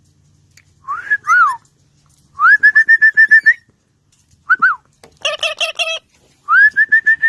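Indian ringneck parakeet whistling in phrases. It opens with two swooping notes, then a quick run of about nine short rising whistles. A couple of brief notes and a harsher pulsed call follow, and another run of repeated rising whistles starts near the end.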